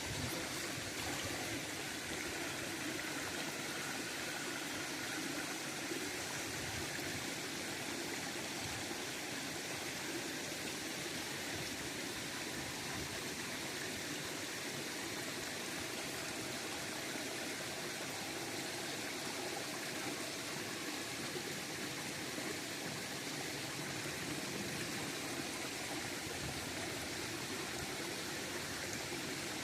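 River water running steadily, a constant rushing flow.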